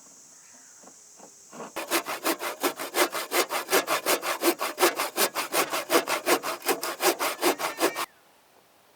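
Rapid back-and-forth scraping strokes, about five a second, starting a couple of seconds in and stopping abruptly near the end.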